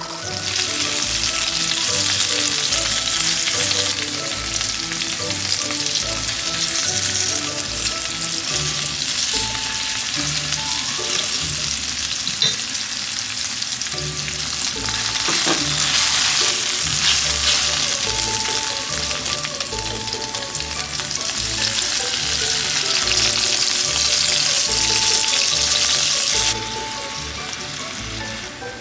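Food frying and sizzling hard in a pan, with stirring, the sizzle dropping away abruptly near the end.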